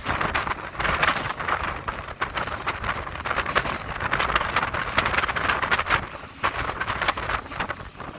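Rushing wind and running noise at the open window of a moving ÖBB class 5047 diesel railcar, swelling and dipping several times.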